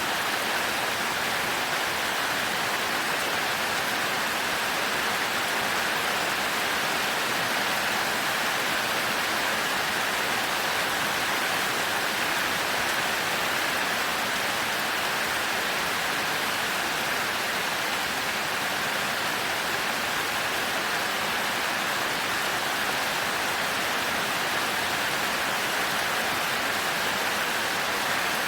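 Heavy rain falling steadily, an even hiss that holds the same level throughout with no thunder.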